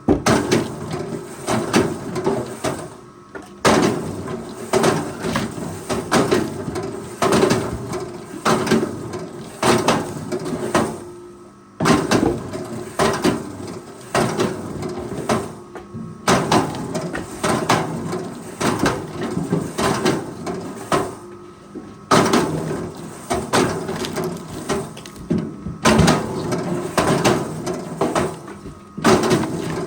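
Forestry machine at work on timber: a steady mechanical drone with repeated knocks and clatter of wood and metal, the sound changing abruptly every few seconds.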